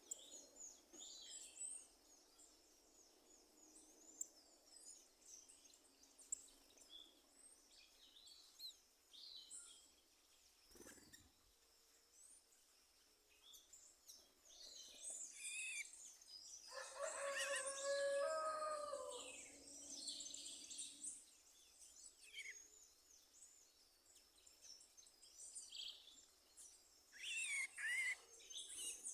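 Wild birds chirping and singing, many short high calls and trills overlapping throughout, with a louder, lower call lasting a few seconds about seventeen seconds in.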